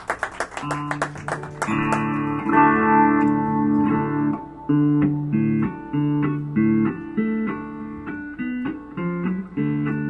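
Applause dying away, then a guitar starts a song's instrumental intro, playing a repeating chord pattern.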